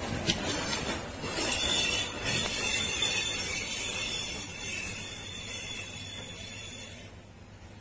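A train hauled by D12E diesel-electric locomotives running away along a curving track. It starts with a few wheel clacks, then a high wheel squeal sounds as it takes the curve and fades, ending abruptly about seven seconds in.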